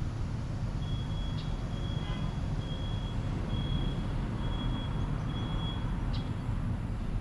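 Steady low vehicle and road rumble at a traffic stop, with a high electronic beep repeating about once a second that stops about six seconds in.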